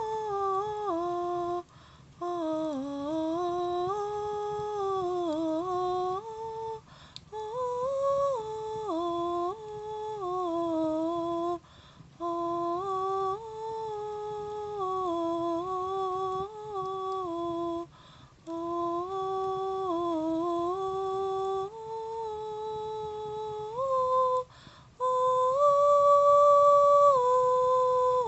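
A single voice humming wordlessly in long, slowly wavering phrases that slide up and down in pitch, broken by short pauses for breath. This is a 'light language' style of vocalizing. The last phrase, near the end, is higher and louder.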